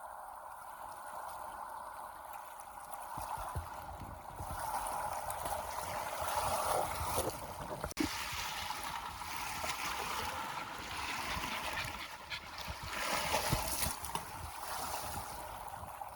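Lake water lapping and splashing in small waves, swelling twice.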